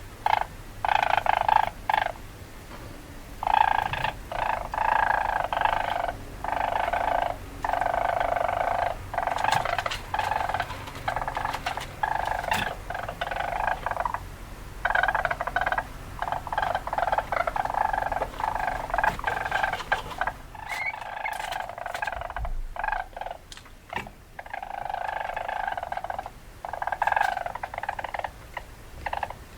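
Weasel calls: a string of pitched animal cries in bursts of about half a second to two seconds each, one after another with short pauses.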